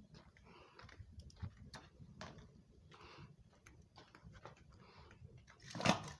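Wood fire crackling in a washing-machine-drum fire pit: irregular snaps and pops over a low steady rumble, with one louder burst near the end.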